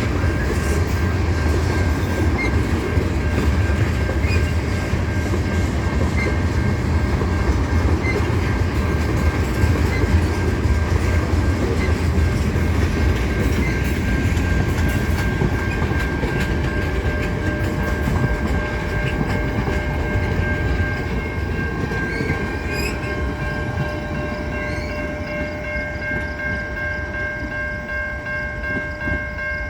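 Freight train cars rolling slowly past at a crossing, wheels rumbling and clacking over the rail joints. The rumble eases in the last several seconds, while a few steady high-pitched tones carry on.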